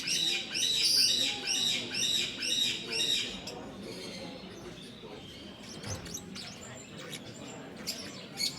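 A cage bird calling: a quick run of repeated high chirps, about two or three a second, for the first three seconds, then only faint scattered chirps over a low background murmur.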